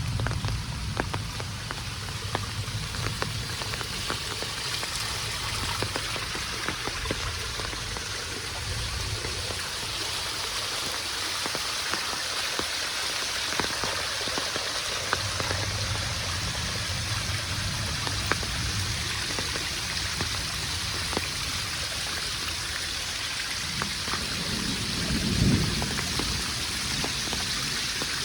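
Steady rain falling, with many sharp ticks of single drops striking close by. A brief low rumble swells about 25 seconds in.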